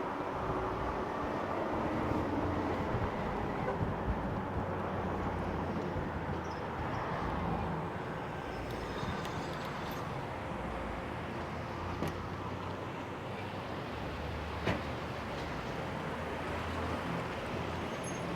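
Steady rumble of wind and road noise picked up by a camera mic on a moving e-bike, with a couple of sharp clicks in the second half.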